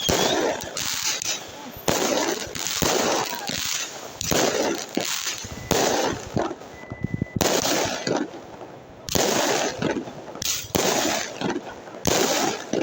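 Fireworks display: a string of loud bangs about once a second, each fading out, with a quick rattle of crackles about seven seconds in.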